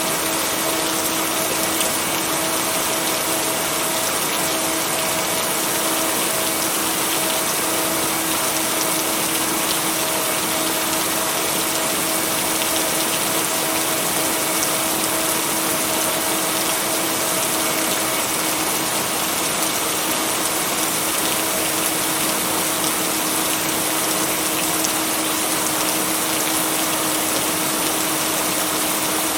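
Steady, even rainfall noise, with a steady hum tone underneath that does not change.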